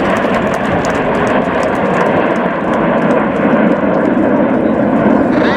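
Fixed-wing aircraft engine noise, loud and steady, from an aircraft flying a display pass.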